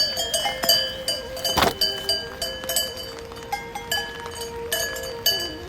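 Metal livestock bells clanking irregularly and ringing on, as on a moving flock of sheep or goats, with one sharp knock about a second and a half in.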